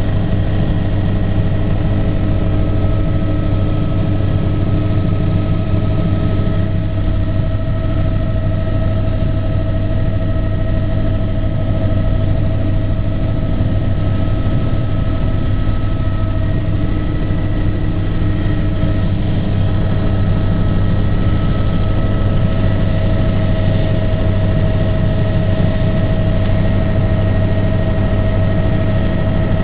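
Aircraft engine running steadily in flight: a continuous drone with a strong low hum and a few steady higher tones above it.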